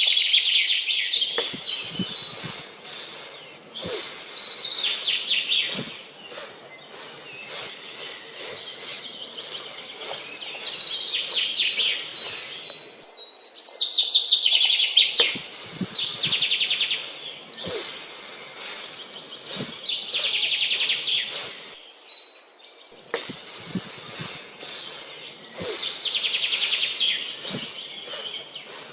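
Birds chirping in rapid trills that come and go every few seconds, over a steady high-pitched hiss. Faint scattered knocks sound underneath.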